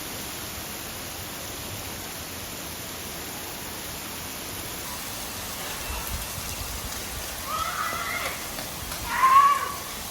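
Steady rain falling, an even hiss. Near the end, two short high calls cut through it; the second one, about nine seconds in, is louder.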